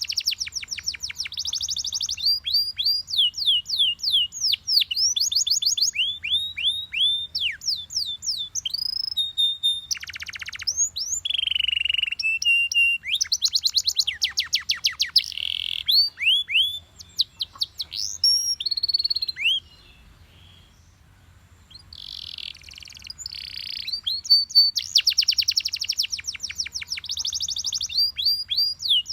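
Yellow Belgian canary singing: phrase after phrase of rapid, high, falling whistled notes and trills, breaking off for about two seconds around two-thirds of the way through before starting again.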